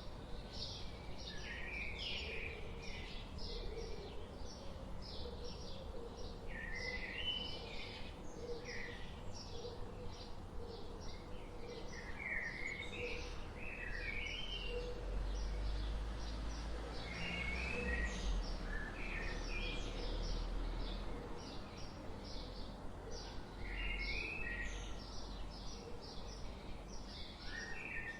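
Forest birds chirping and singing: a steady run of short, high chirps, several a second, broken every few seconds by brief warbling song phrases. A low rumble underneath grows louder about halfway through.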